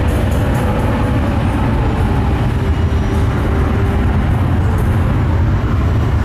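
Jet airliner engines running loud: a heavy, steady rumble with a faint engine whine that dips slightly in pitch.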